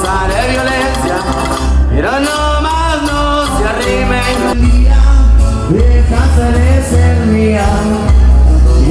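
A Latin band playing a song, with a singer's voice gliding over a heavy, pulsing bass.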